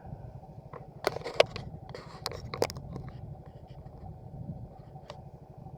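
Motorcycle engine running with a steady low rumble, and a cluster of sharp knocks and rattles between about one and three seconds in.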